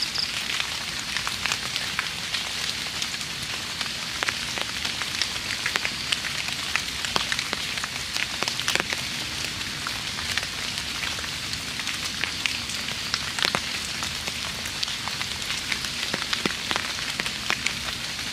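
Steady light rain (drizzle), a constant hiss with many separate drops ticking through it.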